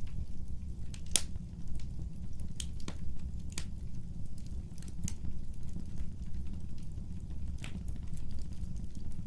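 Wood fire burning: a steady low rumble of flames with irregular sharp crackles and pops from the burning logs, the clearest about a second in.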